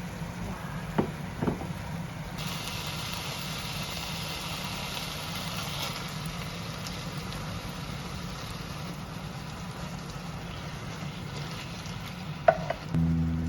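Food sizzling in a frying pan, the hiss starting a couple of seconds in, over a steady low hum. There are a couple of light utensil clicks near the start and a knock near the end.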